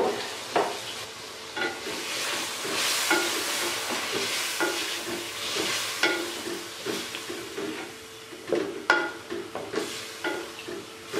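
Chicken and potatoes sizzling in oily masala in a metal pot as a wooden spoon stirs them, the spoon knocking and scraping against the pot about once a second. This is the bhuna (sauté) stage, with a little water just added.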